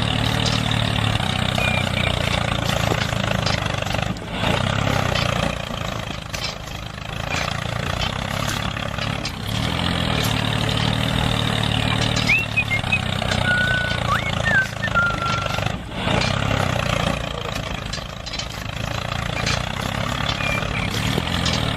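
An engine running steadily at idle-like speed, with brief dips in level about four seconds in and again near sixteen seconds.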